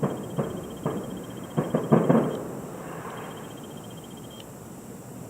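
Distant fireworks shells bursting about a mile away: a quick run of about seven booms in the first two seconds or so, each echoing, then a rumble that dies away.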